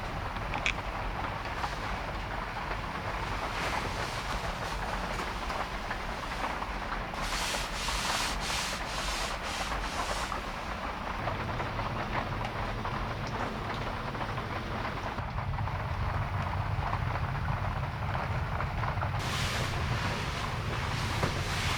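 Small kei truck driving on a wet road in heavy rain: a steady rumble of road and tyre noise under rain, which grows deeper about halfway through. Twice comes a hiss lasting a few seconds, once about a third of the way in and again near the end.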